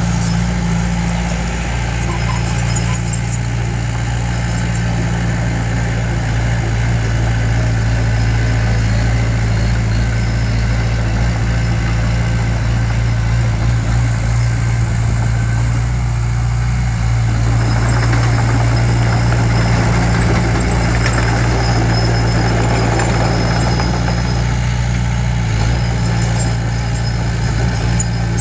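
Diesel engine of heavy earthmoving equipment running steadily, with a louder, rougher stretch of machine noise for several seconds past the middle.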